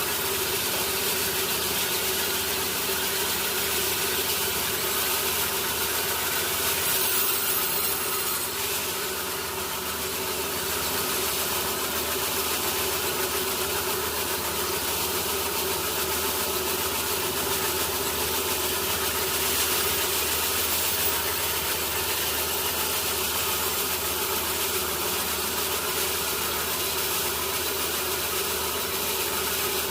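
Sawmill machinery running steadily: a continuous mechanical hum with no breaks.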